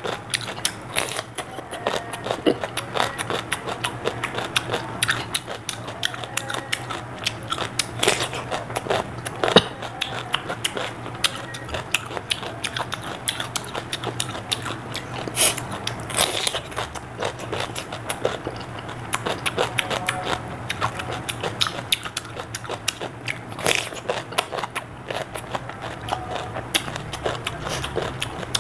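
Close-miked biting and chewing of raw cucumber: many sharp, wet crunches one after another, over a steady low hum.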